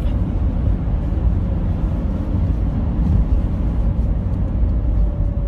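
Steady low rumble of a car driving, heard inside the cabin.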